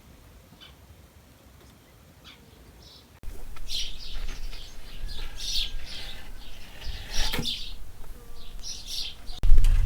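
Small birds chirping, faint at first, then louder and busier from about three seconds in. A low rumble starts just before the end.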